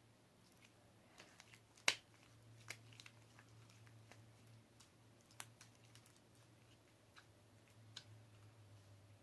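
Very quiet handling of floam slime: a few scattered faint clicks and small pops as it is squeezed and stretched, the sharpest about two seconds in, over a faint steady low hum.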